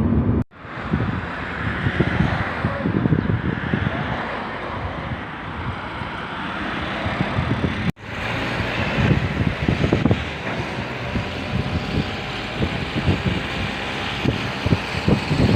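A car on the move: steady road and wind noise with irregular low bumps, cut off abruptly twice.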